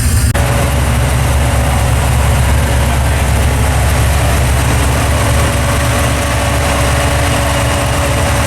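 Engine of an XB Ford Falcon Mad Max Pursuit Special replica running steadily at low revs, a deep low rumble with no revving.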